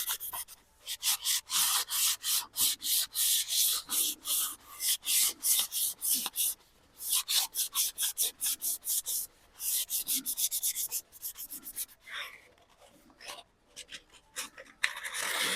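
Outer shell of a dried gourd being hand-sanded with quick back-and-forth strokes, about two or three a second, with short pauses, sparse for a couple of seconds before picking up again near the end.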